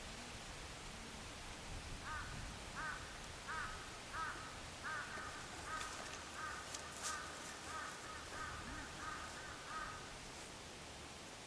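A crow cawing in a quick series of about a dozen short calls, a little under two a second, with a couple of faint clicks in the middle.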